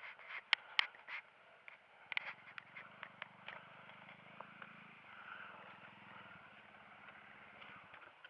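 Scattered sharp metallic clicks and knocks, most of them in the first few seconds, over a faint motorcycle engine idling steadily.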